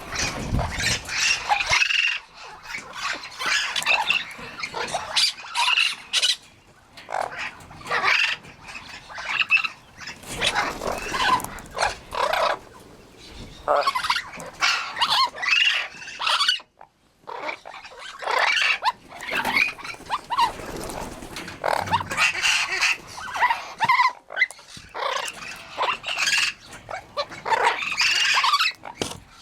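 Amazon parrots squawking and calling: a busy run of loud, harsh, irregular calls one after another, with a couple of short lulls.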